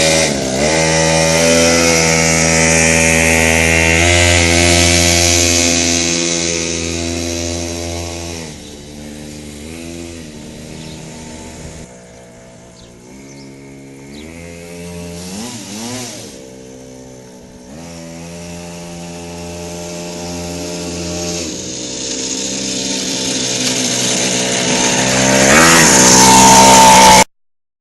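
Small minibike engine running and revving, its pitch rising and falling with each blip of the throttle. It is loud at first, fades in the middle with several short revs, then grows louder again toward the end before cutting off abruptly.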